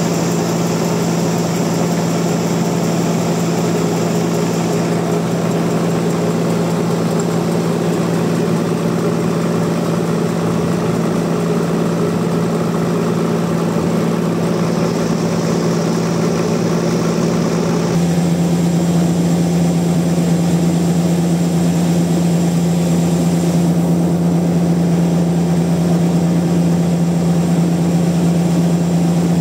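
Sawmill machinery running with a steady, loud hum. The sound changes abruptly about two-thirds of the way in and is slightly louder afterwards.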